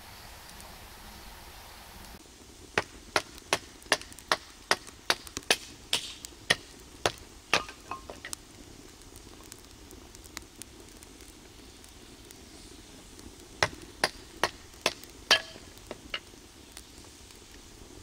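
Firewood burning in a steel fire pit, crackling with sharp pops that come in two runs, a couple a second.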